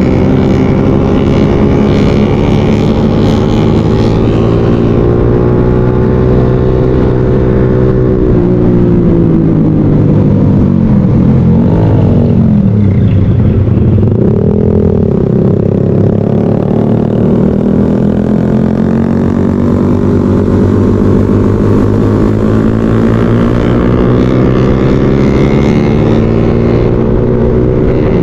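Motorcycle engine running while riding, its note holding steady most of the time, dropping about ten seconds in and climbing again a few seconds later as the revs change.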